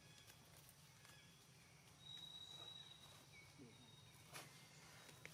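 Quiet outdoor ambience with faint high bird chirps and one long steady whistle starting about two seconds in, plus a couple of faint clicks near the end.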